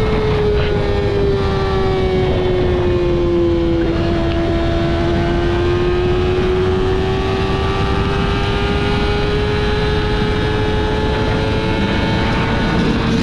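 Yamaha R6 inline-four engine running at high revs through a Two Brothers full-system exhaust. The pitch dips slightly over the first few seconds and then climbs slowly and steadily, over a constant rush of noise.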